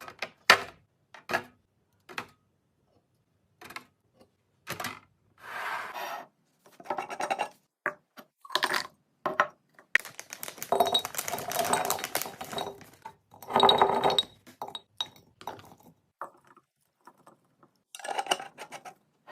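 Containers, jars and bottles being handled and set down while restocking a fridge: a string of short clinks and knocks, with a busier spell of clattering and rustling about ten seconds in.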